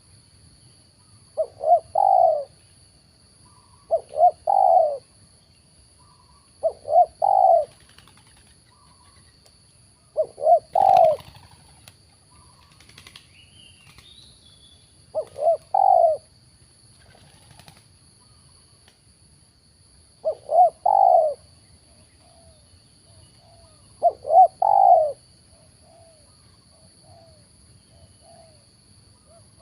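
Spotted dove cooing: a repeated three-note phrase, two short notes then a longer one, sounded seven times at gaps of a few seconds. There is a brief flutter near the middle.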